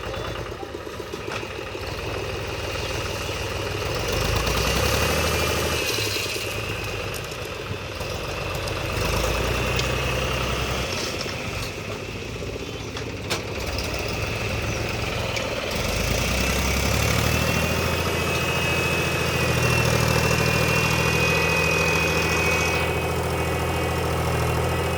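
Mahindra tractor's diesel engine running, rising in stretches several times as the front loader works, with a high whine over the engine in the louder stretches.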